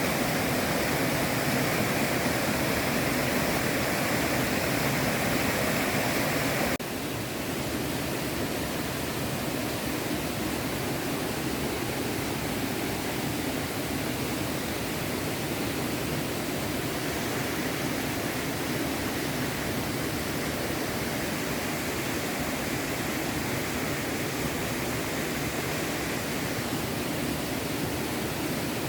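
Small stream running, a steady rush of flowing water. About seven seconds in it switches abruptly to a slightly quieter, duller rush.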